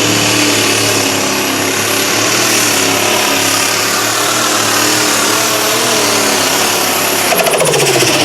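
Competition pulling tractor's engine running hard under load down the track. About seven seconds in the revs drop away, with a brief rattle of clicks, as the pull ends.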